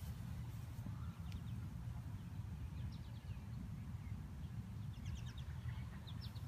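Birds chirping outdoors, a few short runs of quick high chirps now and then, over a steady low rumble.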